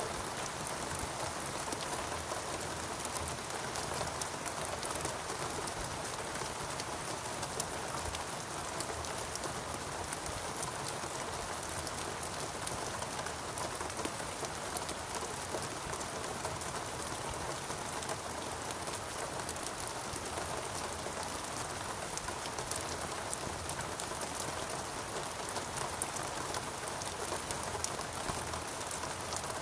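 Steady rain falling, a dense even hiss of drops with many distinct small patters throughout.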